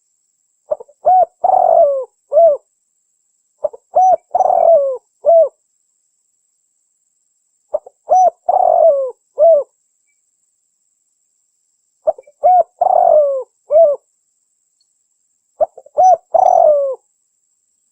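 Spotted dove cooing: a short phrase of a few notes, with one longer, falling note in the middle, repeated five times about every four seconds. It is a recorded call played over and over as a lure for trapping doves, with dead silence between phrases.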